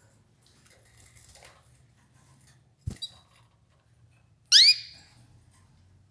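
Canary giving a short call of a few quick high chirps about two-thirds through, over faint clicks and rustles of the birds pecking at escarole, with one sharp knock shortly before.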